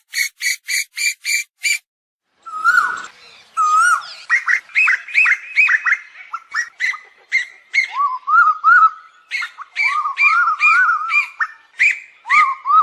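Asian koel calls: a quick even run of short repeated notes, which breaks off about two seconds in. After a short pause comes a dense, fast series of short up-and-down inflected notes that overlap one another.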